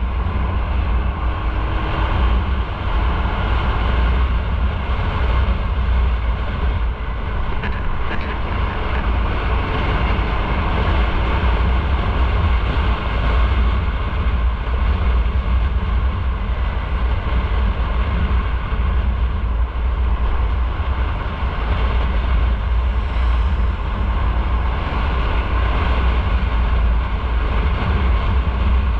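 Motorcycle on the move at a steady speed: engine and road noise under a heavy, steady low wind rumble on the microphone.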